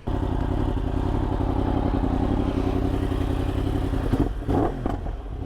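Sport motorcycle engine running steadily while riding, cutting in suddenly at full level.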